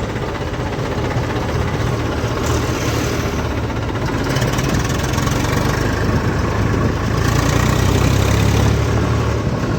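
Tractor's diesel engine running steadily, a low drone that grows louder about seven seconds in.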